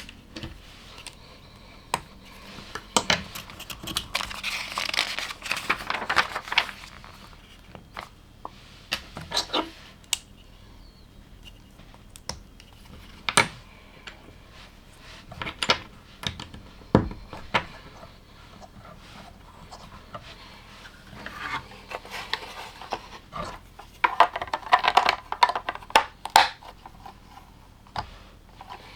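Plastic LEGO bricks clicking and rattling as pieces are handled and pressed together, with sharp clicks scattered throughout. There are stretches of rustling about four seconds in and again past twenty seconds.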